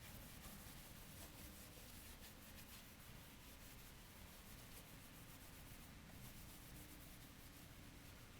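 Near silence: room tone with faint, irregular scratching.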